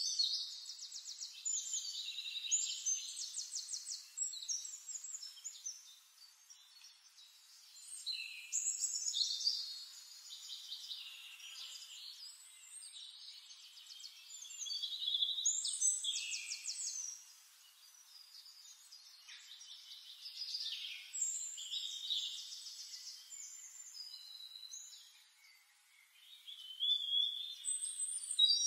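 A songbird singing high, rapid trills and whistled notes in repeated phrases a few seconds long, with short quieter pauses between them.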